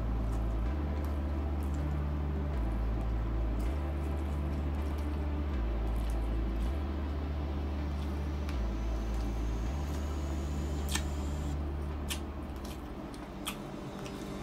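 Wet, squishy chewing and mouth sounds of eating saucy pork ribs with rice, with a few sharp lip smacks near the end as fingers are sucked clean. Under it, a deep hum steps between low pitches every second or two and stops about eleven seconds in.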